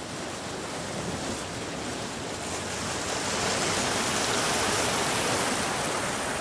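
Sea surf washing on the shore: a steady rush that swells a little midway and eases again.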